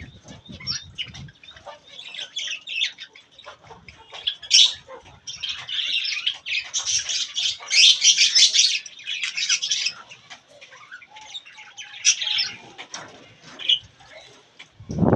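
Budgie chicks chirping and chattering in rapid high calls, thickest and loudest through the middle, with wing flapping.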